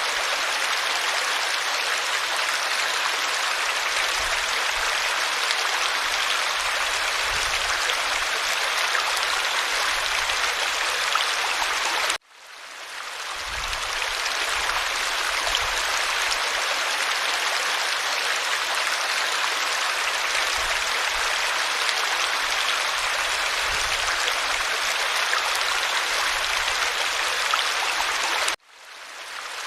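Stream water running in a steady rush. Twice, about 12 seconds in and again near the end, the sound cuts out suddenly and then swells back in over a second or two.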